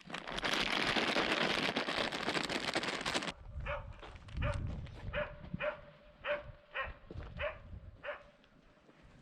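A loud rush of noise for the first three seconds cuts off suddenly. Then a dog gives a string of about eight short barks, roughly two a second.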